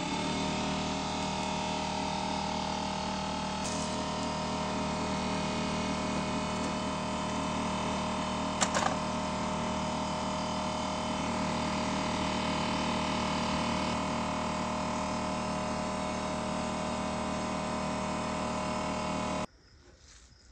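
A motor-driven machine running at a steady pitch, with one short sharp click about nine seconds in. It starts abruptly and cuts off suddenly shortly before the end.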